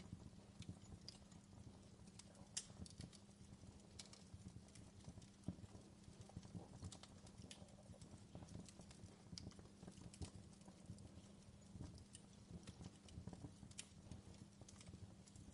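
Fireplace wood fire crackling faintly, with irregular small pops and snaps over a low steady hum.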